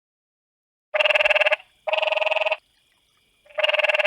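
A frog calling: fast-pulsed trills in pairs, each under a second long. The first pair starts about a second in, and another pair begins near the end.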